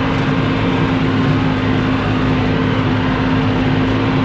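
Tractor engine running steadily with a bush hog rotary mower cutting weeds, a constant hum that does not change.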